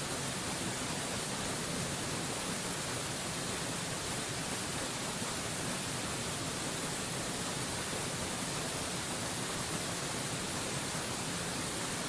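Waterfall rushing steadily, an even hiss-like noise that stays the same throughout with no breaks or separate sounds.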